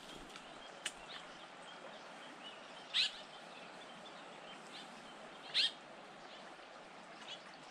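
A bird calling: a short, high, single call repeated twice about two and a half seconds apart, over a faint steady rushing background.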